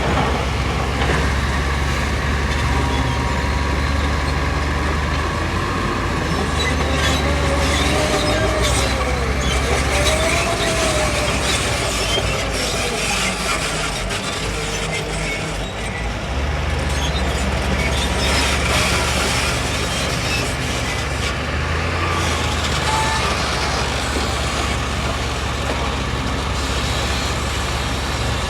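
Heavy diesel construction machinery running steadily with a deep engine drone. The engine eases off briefly about halfway through, and two short rising-then-falling tones and some clatter come through in the first third.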